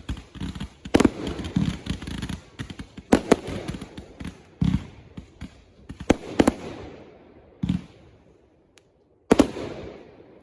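Consumer fireworks going off: a string of sharp bangs with crackling between them, thinning out past the middle, then one last loud bang near the end.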